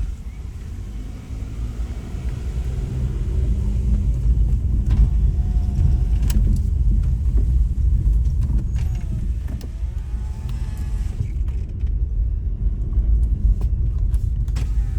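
A moving vehicle's steady low rumble of engine and road noise, growing louder over the first few seconds.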